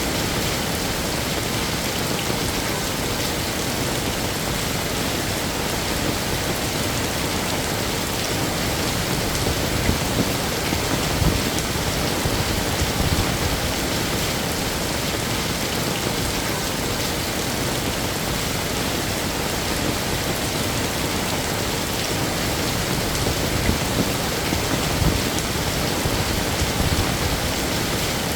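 Heavy rain falling steadily, a dense even hiss of drops with a few slightly louder spatters now and then.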